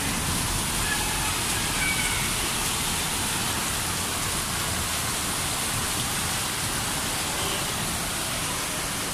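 Heavy rain pouring steadily onto a flooded, water-covered street, an even hiss with no breaks.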